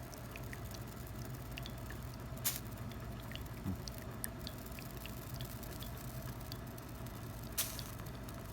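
Espresso dripping from a lever espresso machine's portafilter into the cup during a pressed shot: scattered small drips and patters over a steady low hum, with two sharper clicks about two and a half and seven and a half seconds in.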